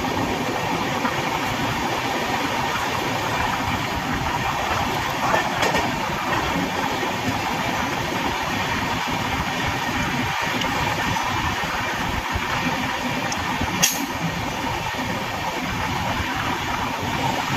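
Tamil Nadu Express running at speed: a steady rumble and rattle of the coach's wheels on the track, with one short sharp click late on.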